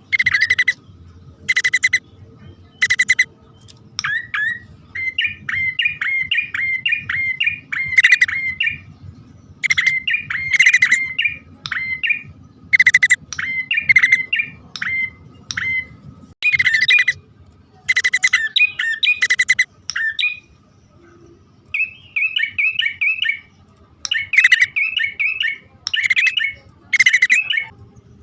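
Male and female prenjak (prinia) calls played as a bird lure: groups of sharp, harsh chips alternate with quick chattering runs of short rising notes, with brief pauses between the groups.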